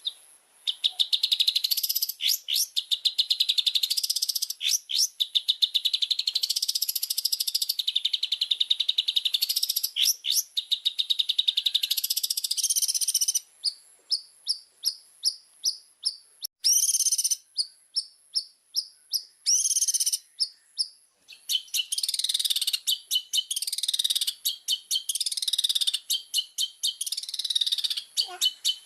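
Long-tailed shrike (cendet) singing in full voice: a fast, dense run of scratchy, chattering notes. About halfway through it breaks into a string of short, evenly spaced notes, about two a second, before the rapid chatter comes back with falling sweeps.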